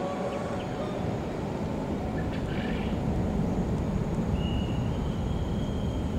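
Steady low rumble of distant traffic and an electric commuter train approaching along the track. A faint, thin high whine comes in about four seconds in.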